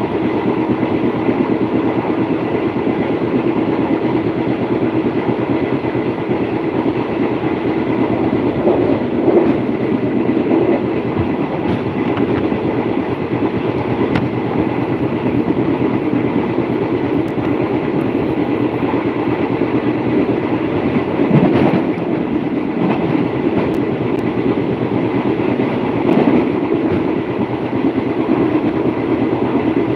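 A passenger train running, heard from on board: steady rumble of the wheels on the rails and the carriage in motion, with a few brief louder swells.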